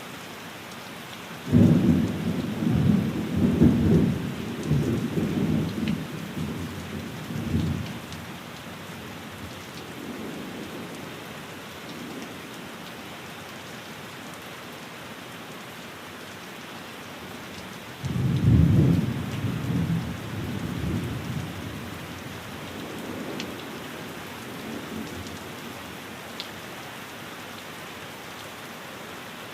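Steady rain with two rolls of thunder. The first breaks suddenly about a second and a half in and rumbles on for several seconds; the second comes about eighteen seconds in and fades out slowly.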